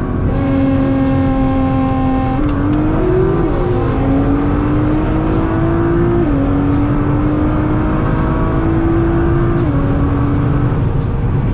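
Car engine accelerating under load through the gears, its pitch climbing slowly in each gear and dropping at upshifts about 3.5, 6.5 and 10 seconds in.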